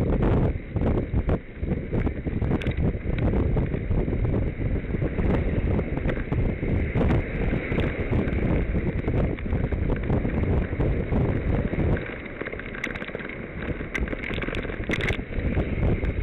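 Wind buffeting the microphone of a camera on a moving bicycle, with scattered clicks and rattles from the bike; the wind eases for about two seconds near the end.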